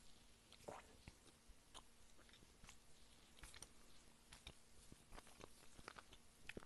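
Close-miked chewing and mouth sounds of someone eating: soft, scattered short clicks.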